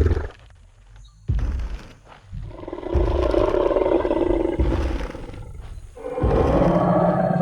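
Tyrannosaurus rex roar sound effect: long, deep, rough roars, one fading out at the start, a longer one from about two and a half seconds in, and another starting near the end. Heavy low thuds of stomping footsteps come under and between the roars.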